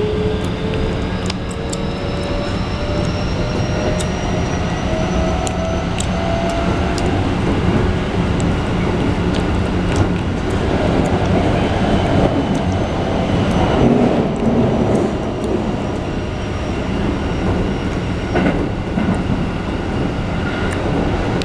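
Keikyu 1500 series train heard from inside the car. Its Toyo IGBT-VVVF inverter and traction motors whine, the tone rising steadily in pitch as the train gathers speed and fading out about seven seconds in. After that the steady wheel-on-rail running noise carries on, with scattered sharp clicks from the wheels.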